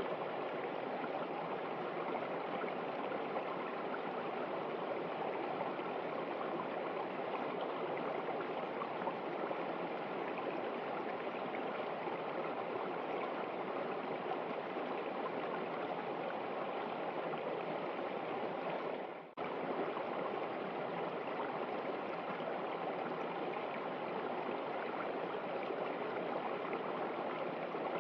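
River water running steadily. About two-thirds of the way through it drops out for a split second, then carries on as before.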